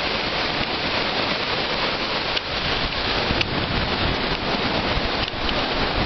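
Steady rushing hiss of fast-flowing floodwater, with a few faint clicks.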